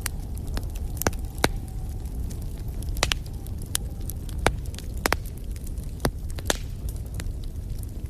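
Wood fire burning in a fireplace: a steady low rumble of flames with sharp crackles and pops at irregular intervals, several louder snaps among them.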